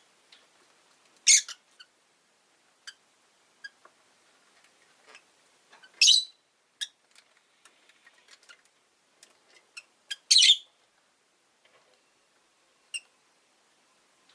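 Rosy-faced lovebirds (Agapornis roseicollis) chirping: scattered short, high chirps with three louder, shrill calls about one, six and ten seconds in.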